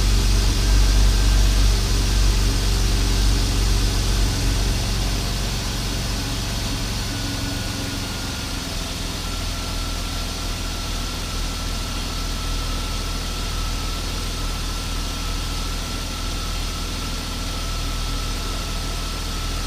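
BMW S52 3.2-litre inline-six engine idling just after an oil change, its idle easing down and settling to a steady, quieter idle about six seconds in.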